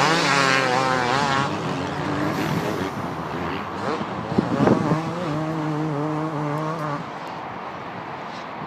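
Motocross bike engines revving, the note rising and falling quickly for the first second or so, then holding a steady note for a couple of seconds before dropping away near the end.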